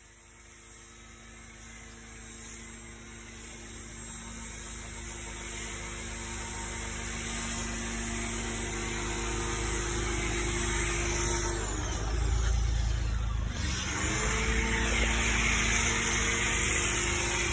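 Car wash machinery running with a steady motor hum that grows gradually louder. About twelve seconds in it cuts out briefly, then spins back up with a rising whine.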